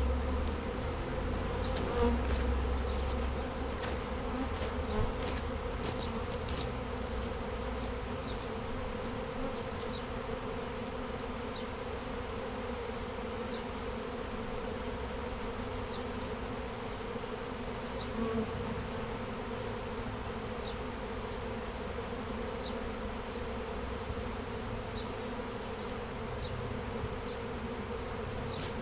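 A swarm of honeybees buzzing: a steady, dense hum of many bees in flight around the hive box.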